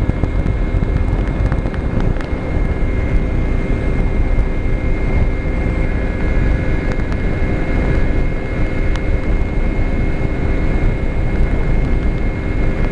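Small-displacement motorcycle engine running steadily at high road speed, around 110 km/h, with a constant drone and heavy wind rumble on the microphone.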